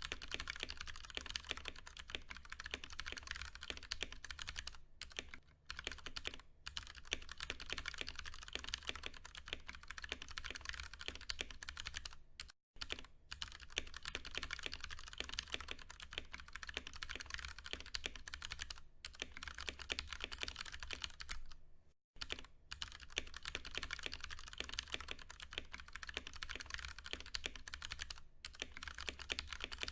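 Fast continuous typing on a Ducky One 2 Mini mechanical keyboard with Cherry MX Brown tactile switches: a dense run of key clacks, broken by brief pauses about 12 and 22 seconds in.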